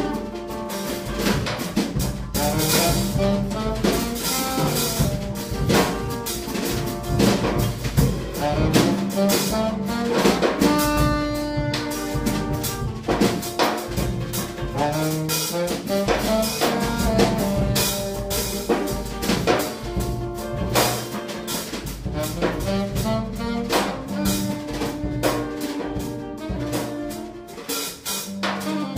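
Live jazz improvisation: drum kit playing busily under held and shifting saxophone notes.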